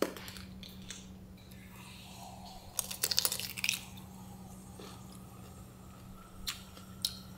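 A person biting and chewing food close to the microphone, with a burst of crunching about three seconds in and a couple of single clicks near the end.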